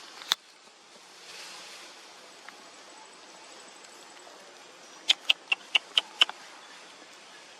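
A sharp click, then a quick series of six short, high-pitched animal chirps about five seconds in.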